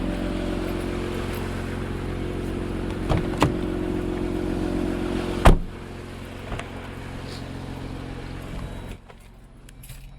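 Jeep engine idling steadily, with two light clicks and then a vehicle door slamming shut about five and a half seconds in, after which the engine sounds quieter and muffled.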